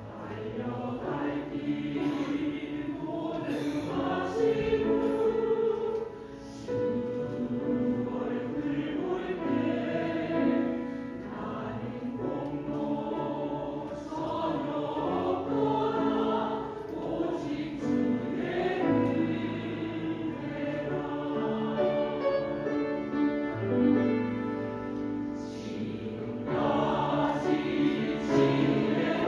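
A choir singing a Christian praise song, with long held notes.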